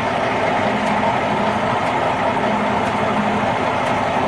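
Truck engine idling steadily, a constant hum with a faint light tick about once a second.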